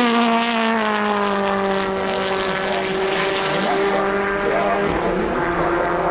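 BTCC touring cars' turbocharged two-litre four-cylinder engines at full throttle, passing trackside. Their engine note falls steadily in pitch as they draw away, and drops again about five seconds in.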